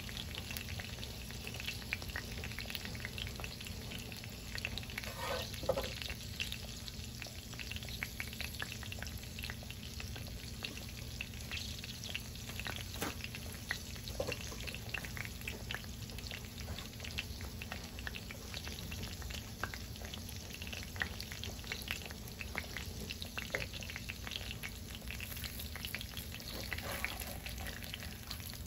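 Food frying in hot oil in a pan: a steady crackling sizzle with many small pops, with a brief higher-pitched sound about five seconds in.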